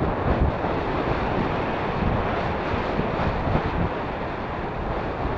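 Strong wind buffeting the microphone: a steady, loud, low rumbling rush of wind noise.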